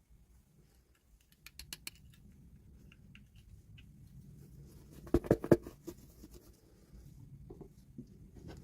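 Small plastic toy pieces and packaging being handled: a quick run of light clicks about one and a half seconds in, then a louder cluster of taps and knocks about five seconds in.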